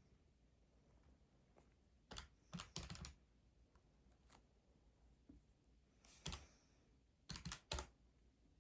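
Keys being tapped in three short clusters of sharp clicks, a few presses at a time with pauses between, over a very quiet room.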